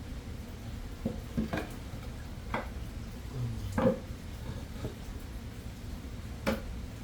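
Scattered knocks and clinks of kitchenware being handled, about six or seven separate strikes with the loudest about four seconds in, over a steady low rumble.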